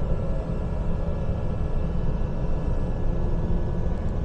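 Steady rumble of an electric commuter train heard from inside the carriage while it moves, with faint steady tones riding over the low running noise.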